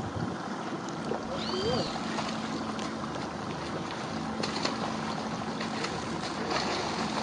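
Steady rushing noise of a boat on the water, with a faint motor hum, and a short bird call about one and a half seconds in.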